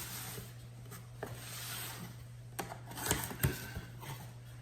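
Cardboard shipping box being opened by hand: rustling and scraping of cardboard and packing, with several sharp knocks and clicks.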